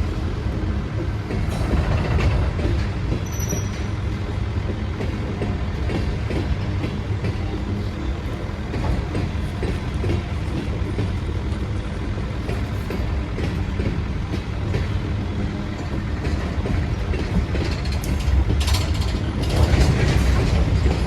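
A train running with a steady rumble, its wheels clicking now and then over the rail joints; the sound swells about nineteen seconds in.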